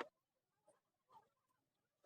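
Near silence, broken by two faint, brief sounds, one about two-thirds of a second in and one just after a second in.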